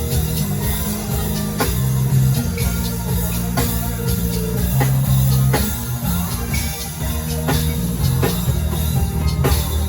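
Live worship band playing without words: drum kit, bass and keyboard, with held bass notes and drum accents about every two seconds.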